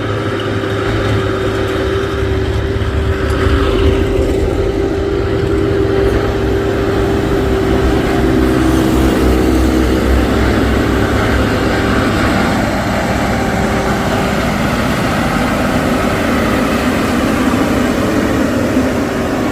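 Vehicle engines labouring up a steep climb, with a steady high whine over the engine noise; a second engine note joins in for a few seconds about halfway through.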